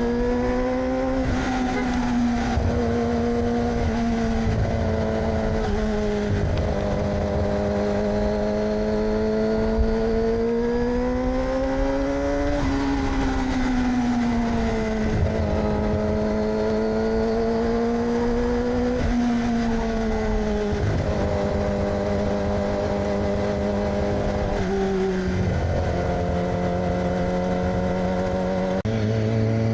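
A 2006 Yamaha R6's inline-four running through an AR aftermarket exhaust under way. The engine note climbs and eases off over several seconds at a time, with a few sudden steps in pitch at gear changes.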